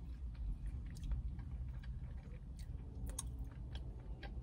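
A person chewing a mouthful of fast food with the mouth closed: soft, irregular mouth clicks and crunches over a low, steady background rumble.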